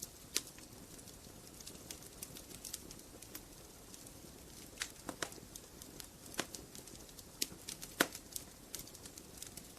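Wood fire crackling: burning logs giving off irregular sharp pops and snaps over a soft steady hiss, with a louder pop about eight seconds in.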